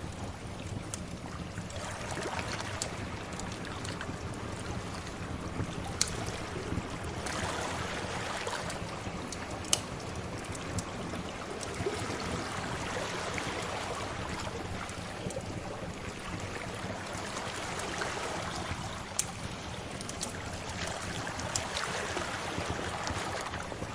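Sea waves washing in and drawing back in slow swells, with the sharp pops and crackles of a wood fire now and then.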